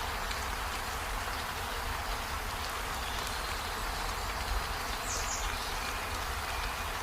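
Steady rain falling, an even hiss with a low rumble underneath, and a brief high chirp about five seconds in.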